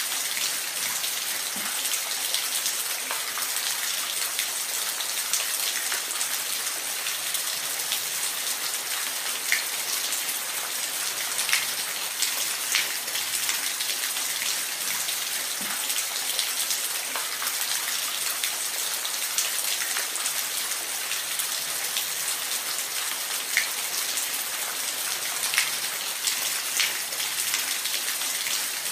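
Waterfall: a steady hiss of falling water with scattered small splashes and droplet ticks.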